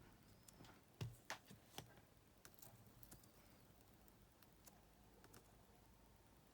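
Near silence broken by a few faint, sharp clicks and taps of small repair tools on a cassette player's circuit board, three of them close together about a second in, then a few weaker ones.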